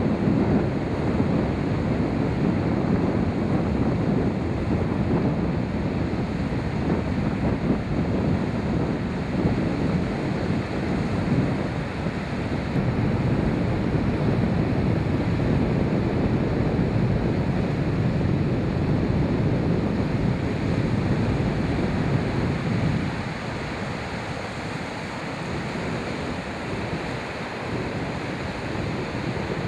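Wind rushing over the microphone with the wash of sea waves, a steady noisy rush that eases a little about three quarters of the way through. No gull calls stand out.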